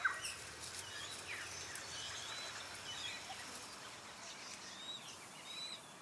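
Scattered short chirps and whistles of small wild birds over a faint, steady hiss of outdoor ambience.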